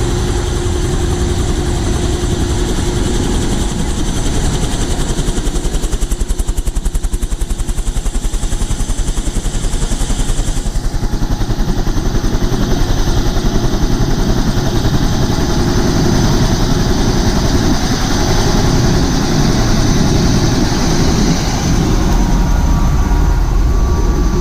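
Helicopter running on the ground before takeoff: a loud, steady turbine and rotor noise with a fast, even pulsing.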